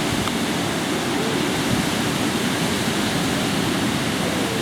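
Steady noise of ocean surf and wind at the beach, an even hiss that does not rise or fall.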